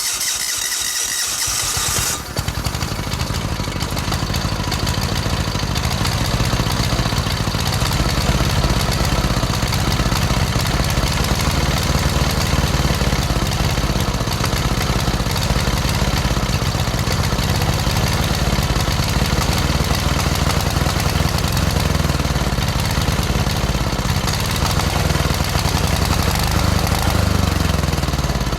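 Old diesel engine cold-starting. The starter whines for about two seconds, then the engine catches and settles into a steady idle.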